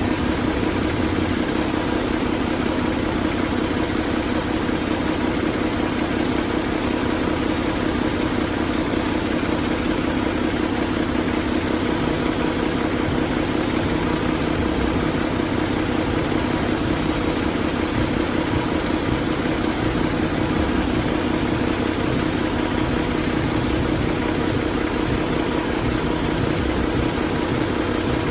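2021 Paccar MX13 inline-six diesel engine idling steadily.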